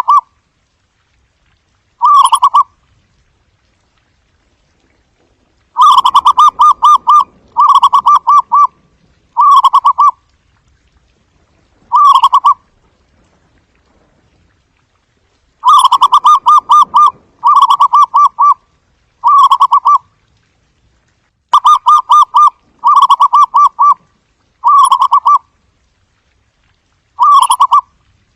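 Zebra dove giving its soft, staccato cooing call: short rapid trills of cooing notes, about a dozen phrases with pauses between, some coming two or three in quick succession.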